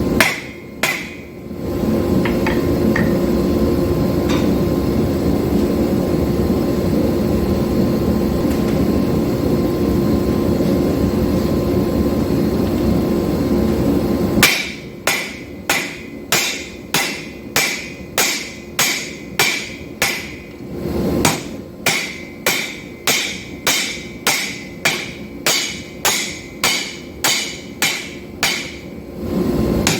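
Hand hammer blows on hot steel on an anvil as a knife blade is drawn out: a few strikes at the start, then about twelve seconds of a steady rushing noise with a low hum, then evenly paced blows at about one and a half a second.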